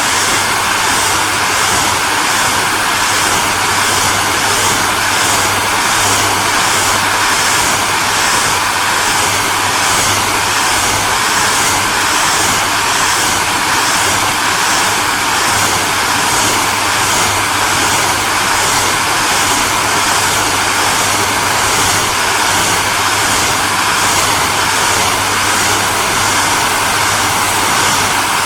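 Electric hair dryer running continuously: a steady, loud rushing of blown air over a low motor hum, with a faint pulsing in the high hiss about twice a second.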